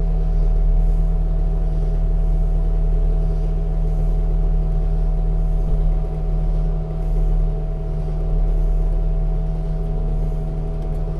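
Skid-steer loader's diesel engine idling steadily, a constant low drone.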